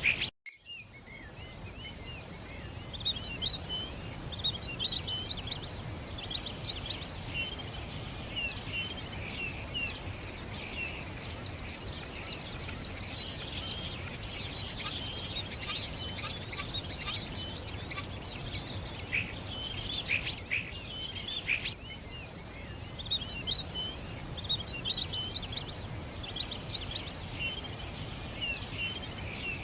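Many small songbirds chirping and twittering continuously, densest in the middle, over a steady low background hum. A brief cut to silence comes just after the start.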